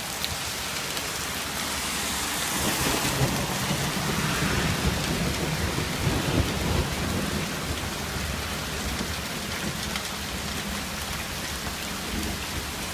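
Hail and rain pelting down steadily, about three-quarter-inch hailstones. A long low rumble of thunder swells about two seconds in and fades away after about seven seconds.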